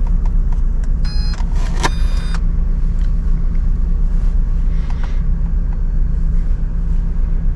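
Two short electronic beeps about a second in, typical of an RC car's brushless ESC arming when switched on. A steady low rumble runs underneath.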